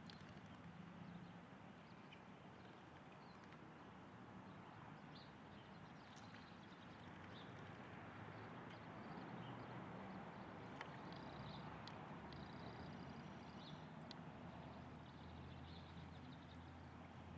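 Faint bird calls: a few short, high chirps, mostly around the middle, over a quiet, steady background hiss.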